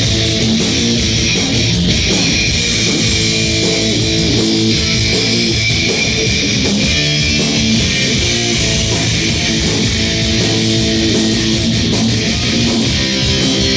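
Live crossover thrash band playing loud: distorted electric guitars over bass and drums with constant cymbal hits.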